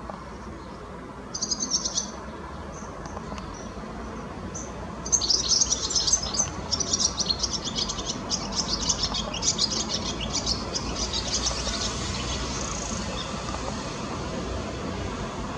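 Small garden birds chirping: a short burst of high chirps about a second in, then a long run of rapid, dense chirping from about five seconds in until about twelve.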